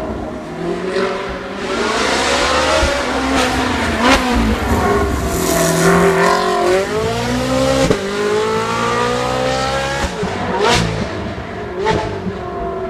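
Race car engine at high revs climbing a hill course, its pitch rising and falling again and again as it accelerates, brakes and shifts gear. Sharp cracks come at the gear changes, four times.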